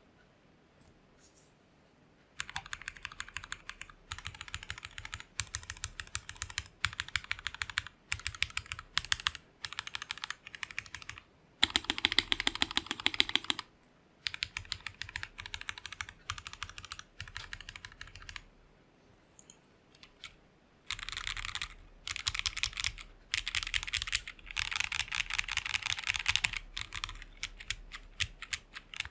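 Typing on a Lapis60 60% mechanical keyboard with Jwick Black linear switches: runs of rapid keystrokes broken by short pauses, the longest about two seconds at the very start and another around two-thirds of the way through.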